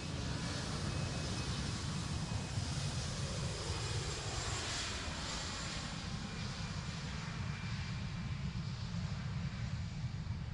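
Airliner's engines at takeoff power as it rolls down the runway past the listener, the rushing hiss swelling to its loudest about halfway through and then fading, over a steady low rumble.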